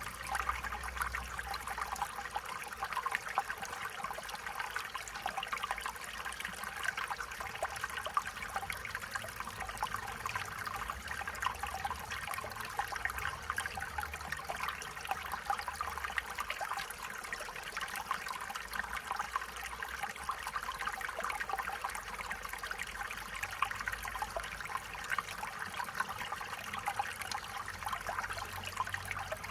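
Stream water flowing and trickling steadily, a continuous babble of small splashes.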